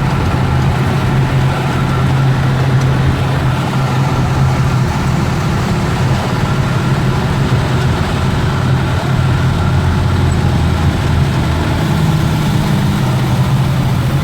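A motor vehicle's engine running steadily at a low, even pitch under a constant hiss.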